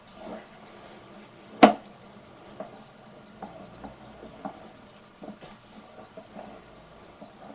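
Sewer inspection camera and its push cable being drawn back through the pipe: scattered light clicks and knocks, with one sharp knock about a second and a half in.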